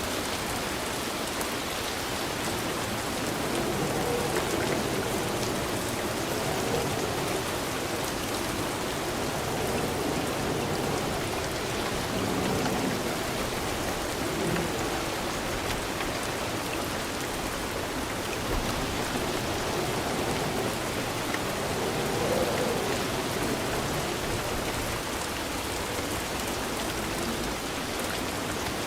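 Steady rainfall, a dense even patter of drops on a surface, swelling gently in and out.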